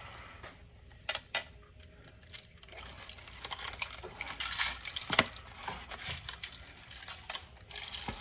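Handling a raw whole chicken while seasoning it: a few light clicks, then soft, continuous crackly rustling from the seasoning and the hands working over the bird.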